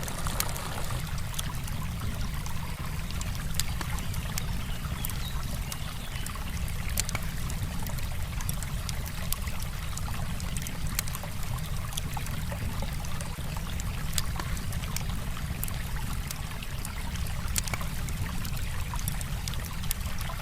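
Campfire crackling with frequent sharp, irregular pops over the steady rush of a river flowing over stones.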